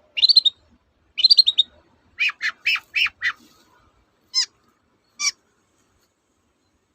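Long-tailed shrike (cendet) song: two quick bursts of rapid chattering notes, then a run of five harsh notes, then two single calls.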